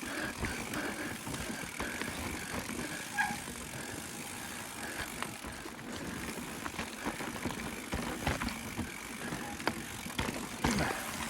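Chromag Stylus hardtail mountain bike ridden over wet limestone: tyres rolling on rock, with frequent short knocks and rattles from the bike.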